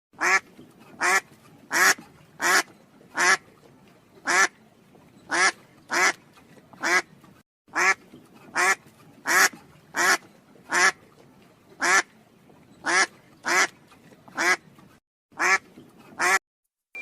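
Duck quacking repeatedly: about twenty short, nasal quacks, roughly one every 0.7 seconds, with a few brief pauses between runs.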